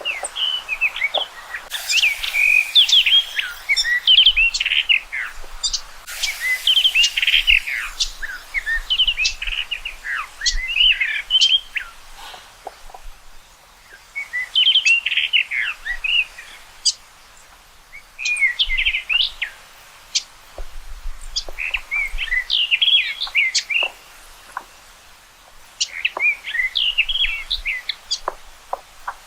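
Common rock thrush singing: quick, warbling phrases of gliding notes, delivered in bouts of a few seconds separated by short pauses.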